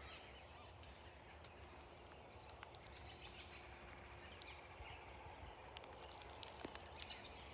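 Faint, distant birdsong and calls from several birds, with a few soft chirps standing out over a quiet outdoor background.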